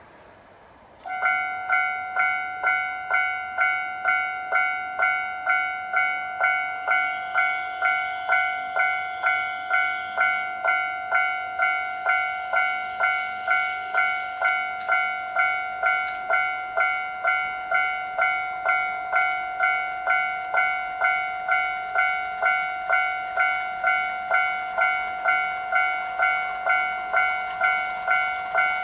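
Railway level-crossing warning bell starts about a second in and rings on steadily at just under two strikes a second, warning that a train is approaching.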